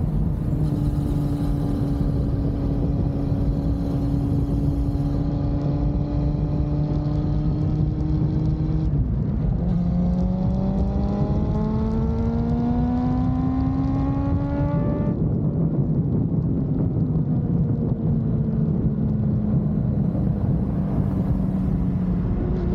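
Honda CB400SF motorcycle's inline-four engine under way. It holds steady revs, then climbs in pitch for about five seconds before dropping suddenly at a gear change, and settles at lower revs, over a steady low wind rush.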